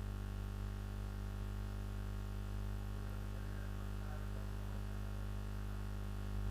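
Steady electrical mains hum, a low buzz with many overtones picked up on the call's audio. It gets slightly louder just before the end.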